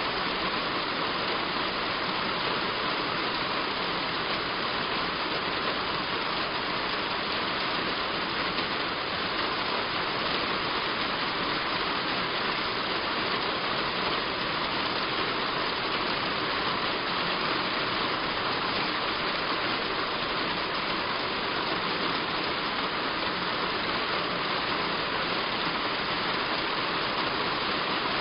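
Heavy rain falling steadily on a roof: an even, unbroken hiss of drops.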